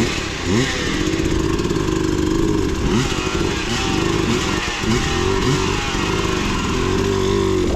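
Enduro dirt bike engine revving unevenly under load on a climb, its pitch rising and falling again and again as the throttle is worked, then held higher near the end.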